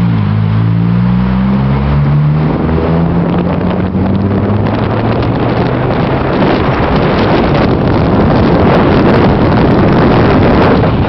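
Vehicle's engine heard from inside the cabin, climbing in pitch as it accelerates over the first couple of seconds, then giving way to steady road and wind noise.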